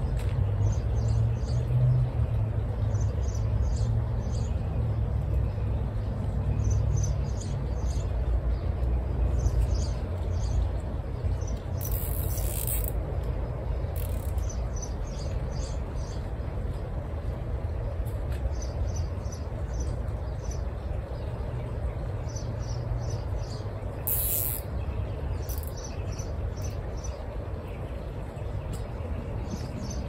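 Small birds chirping, with short high chirps repeating throughout and two louder, higher bursts about twelve and twenty-four seconds in. A steady low rumble runs underneath and is the loudest sound.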